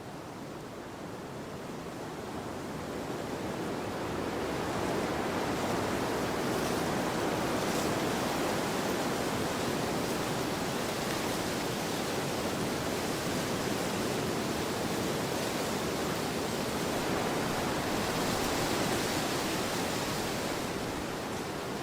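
Wind blowing across a field, a steady noise that builds into a stronger gust a few seconds in and eases slightly near the end.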